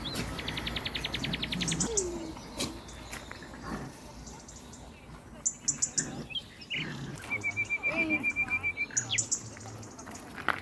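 Small birds singing: a fast trill of evenly repeated notes in the first two seconds, another trill of repeated notes in the second half, and scattered short high chirps.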